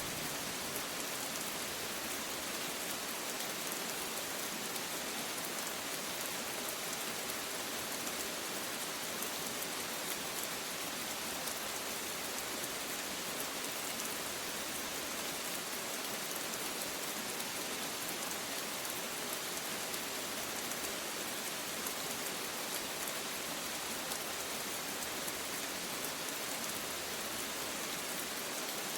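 Rain falling steadily on a surface: an even, unbroken hiss with no thunder.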